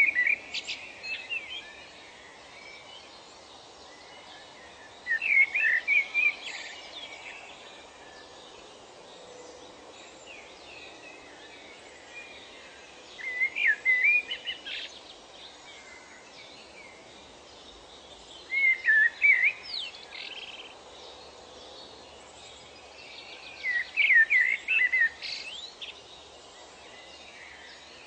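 A songbird singing short phrases of quick, warbling chirps, five phrases spaced about five or six seconds apart, over a steady background hiss.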